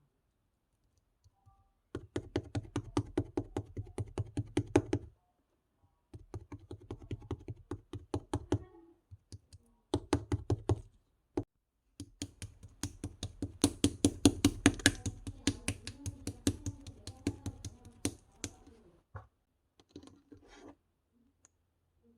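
Rapid clicking taps, about seven a second, in several bursts of a few seconds each with short gaps, the longest burst in the second half.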